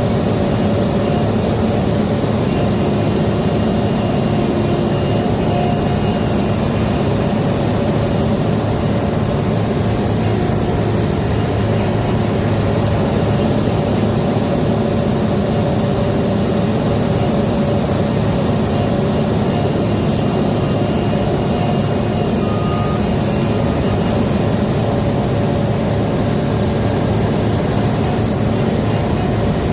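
Cat 395 hydraulic excavator's diesel engine running steadily: a continuous heavy-machine drone with no let-up.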